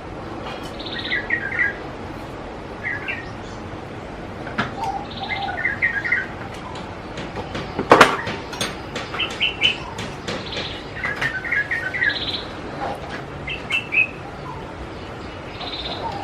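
Birds chirping in short repeated bursts, a buzzy higher note coming back about every five seconds. Scattered light clicks run through it, with a sharper click about eight seconds in.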